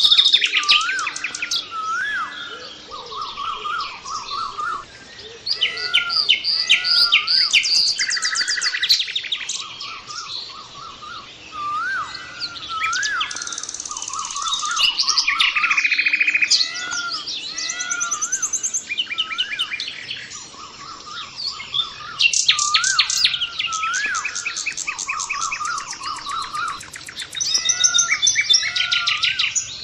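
Several birds chirping and trilling at once, a chorus of rapid trills and chirps over a short rising-and-falling whistled note repeated many times.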